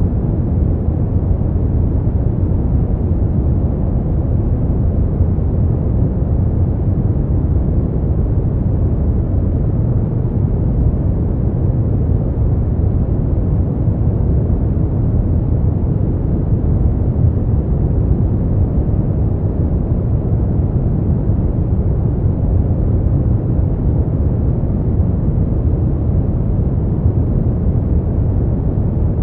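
Steady brown noise: a constant, even hiss weighted toward a deep low rumble, with no changes.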